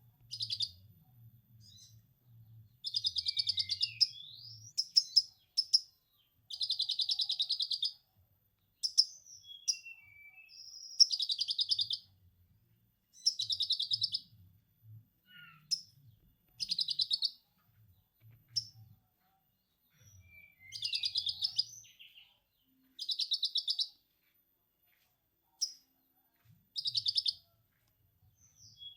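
Konin songbird singing lovebird-style 'ngekek' chatter: about ten bursts of fast, rapidly repeated high notes, each a second or so long, separated by short pauses.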